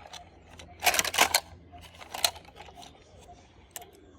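Small plastic toys being handled: a string of light clicks, with a louder rustling clatter about a second in.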